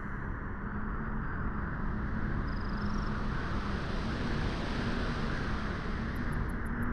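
Wind blowing at a beach, a steady rushing noise that swells in the middle and eases a little near the end.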